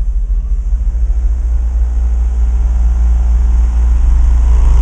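Car audio subwoofers playing a deep, steady bass note at extreme volume during an SPL competition run, gradually getting louder.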